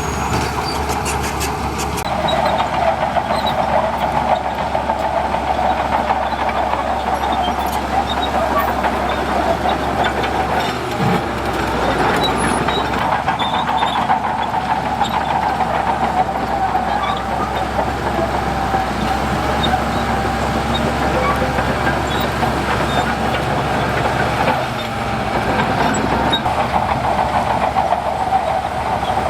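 Crawler bulldozer working in sand: its diesel engine runs steadily under load, with a clatter of metal tracks.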